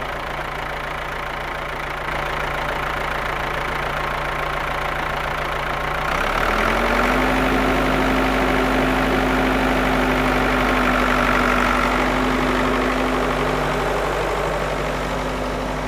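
An engine-like motor sound running steadily, stepping up in pitch and getting louder about six seconds in, then holding at the higher speed.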